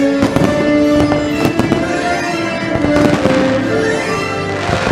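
Fireworks bursting and crackling in quick succession over the show's music, which holds sustained notes.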